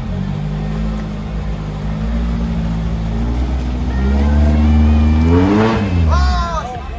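Off-road 4x4's engine running under load, revving up from about four and a half seconds in to a peak and then dropping back.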